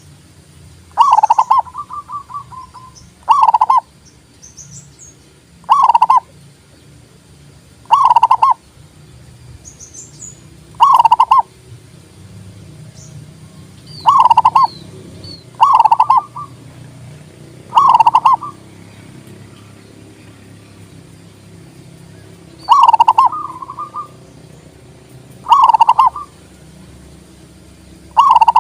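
Zebra dove (perkutut) cooing: a series of about eleven short, loud calls roughly every two seconds, a few ending in a brief trill.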